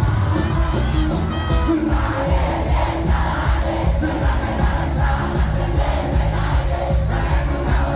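A live cuarteto band playing with a steady beat and deep bass, with a crowd shouting and singing along.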